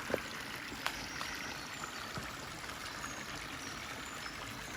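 Shallow river running over stones at stepping stones, a steady even rush of water. A couple of sharp clicks sound in the first second.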